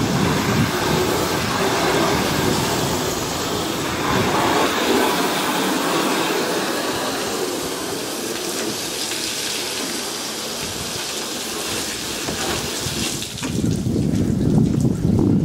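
Water spraying steadily from a hose, a continuous rushing hiss. A louder low rumble takes over near the end.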